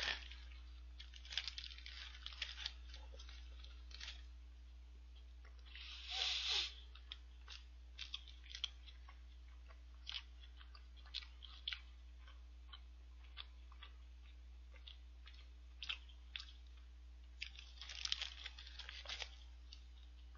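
A person chewing a mouthful of shrimp burger close to the microphone, with small wet mouth clicks throughout. There are two louder crunches, about six seconds in and again near the end.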